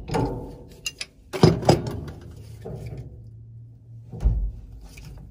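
Wrench and metal fittings on an old furnace gas valve knocking and scraping as a still-tight fitting is worked loose: several sharp knocks in the first two seconds and a heavier thump about four seconds in.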